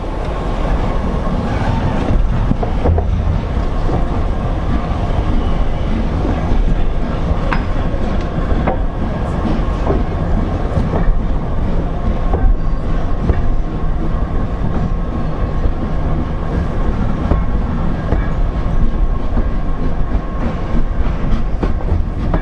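Isle of Wight Steam Railway train running along the track: a steady rumble of the moving carriage, with wheels clicking over the rail joints.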